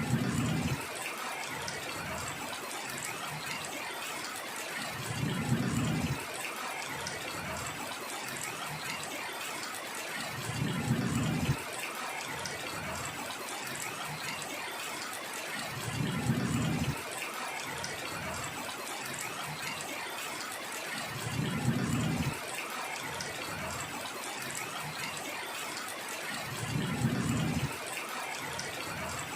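Steady heavy rain hissing, with a short low rumble of about a second repeating at even intervals, about every five and a half seconds.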